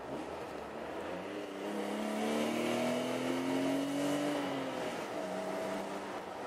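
BMW E34 525i's 2.5-litre straight-six, fitted with a BMC sports air filter, heard from inside the cabin while accelerating under load. The engine note climbs steadily and gets louder. A little under five seconds in, the revs drop, as at an upshift, and the engine pulls on at a lower pitch over road noise.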